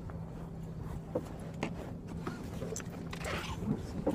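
Car engine idling, heard inside the cabin as a low steady hum, with scattered small clicks and knocks from movement in the car.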